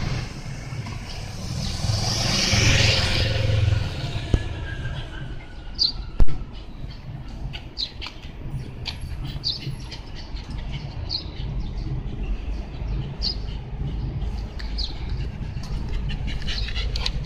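A bird calling with a short high note repeated about every one and a half to two seconds over a steady low rumble of traffic, after a car passes during the first few seconds. A single sharp click about six seconds in.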